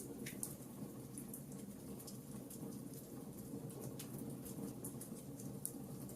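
Wood fire crackling in a fireplace: a steady low rush of burning with many small sharp pops and crackles scattered irregularly throughout, a few of them louder.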